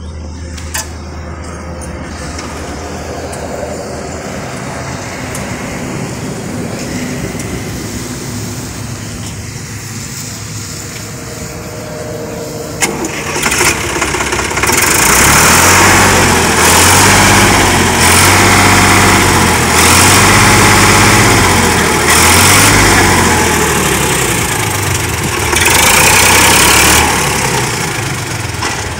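Diesel tractor engine: a steady, quieter running sound, then about halfway through a sharp click and the engine comes up loud. It is revved several times in surges of a second or two.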